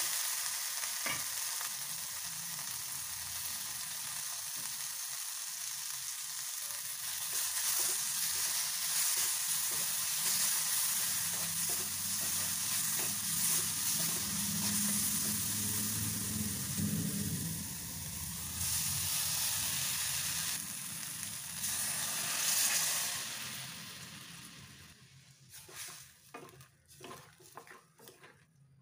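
Tomatoes, chillies and curry leaves sizzling and crackling in hot oil in an aluminium kadai, stirred with a wooden spatula. Near the end the sizzle dies down as the buttermilk mixture goes in, leaving only scattered soft clicks and stirring.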